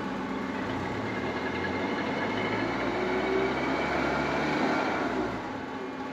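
Engine running steadily, its speed rising a little through the middle and easing back down about five seconds in.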